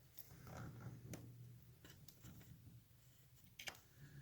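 Near silence, with a few faint metallic clicks and taps of a hand tool working the tab of the sprocket nut's lock washer, one about a second in and a sharper one near the end.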